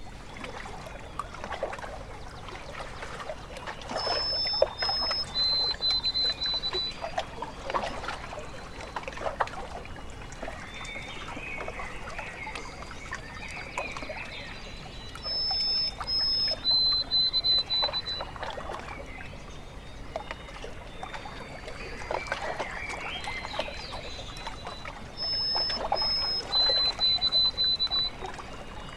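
Lake water lapping and trickling at the shore in small irregular splashes. A high bird call of two short notes followed by a run of slightly lower notes comes three times, about eleven seconds apart.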